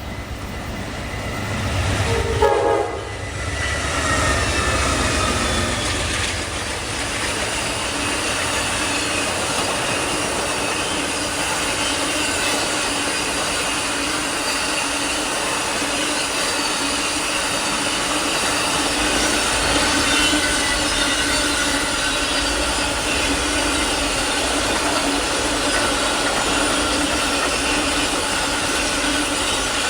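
Amtrak Auto Train passing: a short horn sound about two seconds in, then the steady rumble and clatter of its long string of cars rolling by, with thin wheel squeal over it.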